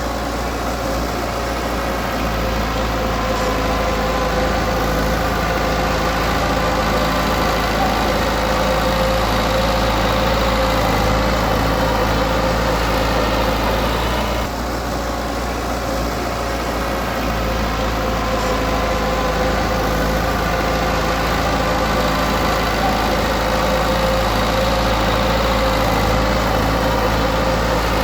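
Diesel engine of heavy earthmoving equipment running steadily, with a constant low rumble and a steady hum, dipping slightly for a moment about halfway through.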